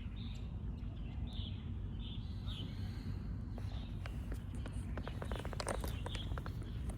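A small bird chirping repeatedly, short calls about twice a second, over a steady low rumble, with a quick run of sharp clicks in the second half.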